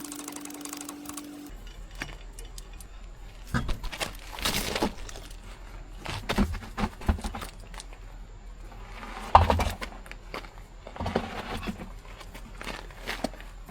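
Hand tools and metal parts clinking and knocking irregularly as a car's wheel and brake are taken apart, with a louder knock about nine seconds in.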